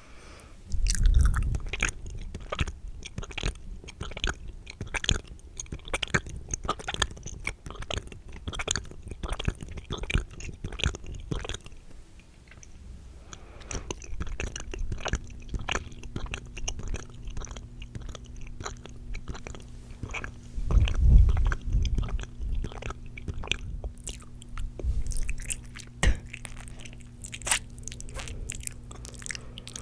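Wet, spitty mouth sounds close against the microphone, as in ASMR mic licking: a dense run of sharp smacking clicks, several a second, with two heavier low thumps, one near the start and one about two-thirds of the way in.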